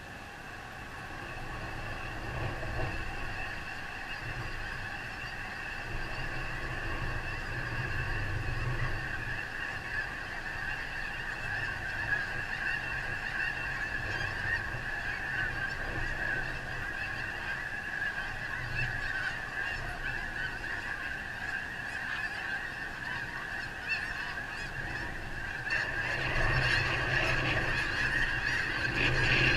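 A huge flock of snow geese calling all at once, a dense unbroken chorus of honking that swells louder near the end, with wind rumbling on the microphone.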